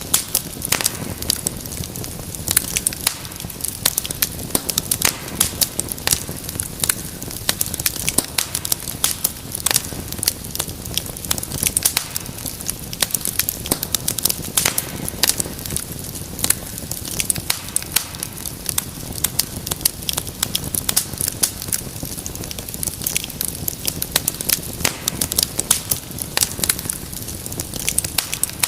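Wood fire burning in a fireplace: a dense, irregular stream of sharp crackles and pops over a low steady rumble of flame.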